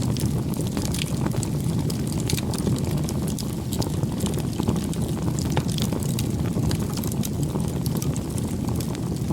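Campfire burning: a steady low rumble of flames with many scattered sharp crackles and pops.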